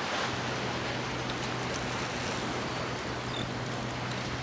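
Steady outdoor noise of wind and surf, with a steady low hum running underneath.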